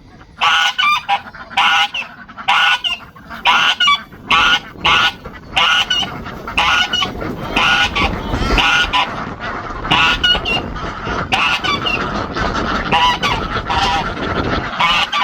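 Domestic geese honking over and over, two or three calls a second, with a rough steady noise building underneath in the second half.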